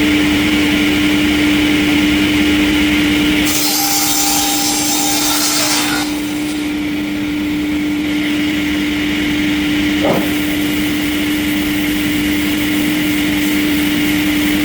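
Sawmill machinery running with a steady hum, and a saw cutting wood with a loud hiss from about three and a half to six seconds in.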